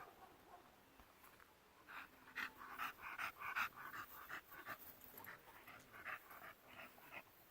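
An American bully dog panting fast and steadily, the rapid breaths starting about two seconds in, as a dog does when hot and worn out from hard running.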